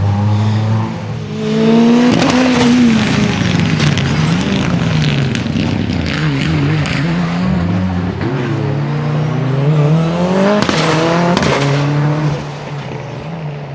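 Rally car engine at full effort, its pitch climbing and dropping repeatedly as it revs and shifts, with a run of sharp exhaust cracks midway. It falls away about twelve seconds in.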